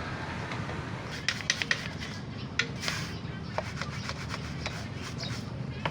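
Rubbing with scattered light clicks and taps over a steady low rumble.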